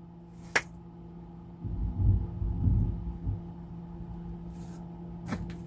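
Microwave oven running with a steady low hum while it cooks. A low rumbling stretch about two seconds in, with a sharp click shortly after the start and another near the end.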